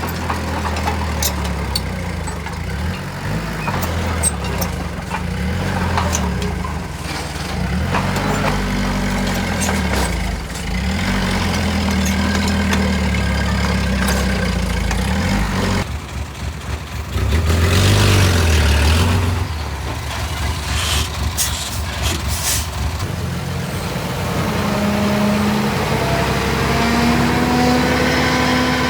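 Diesel engines of heavy earthmoving machinery running under load, with scattered sharp knocks and clanks. An engine revs up, rising in pitch, near the end.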